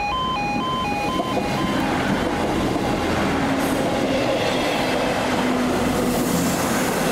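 A diesel multiple unit passenger train running through an automatic half barrier level crossing, its wheels and engine noise building about a second in and then staying steady and loud. For the first second or so the crossing's two-tone E2S Appello alarm alternates high and low before it is lost under the train.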